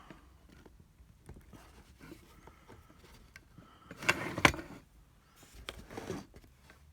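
Close handling noises of working a hard rubber strain-relief fitting onto a charger cable: faint rubbing and small ticks, a louder scrape ending in a sharp click about four and a half seconds in, and a shorter scrape near the end.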